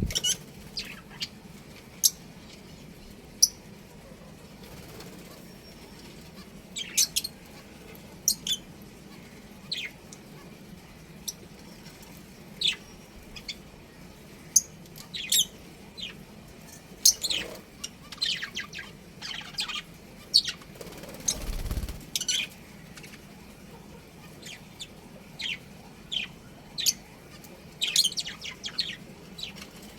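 Budgerigars chirping: short, sharp, high calls at irregular intervals, with a brief low thud about three quarters of the way through, over a faint steady hum.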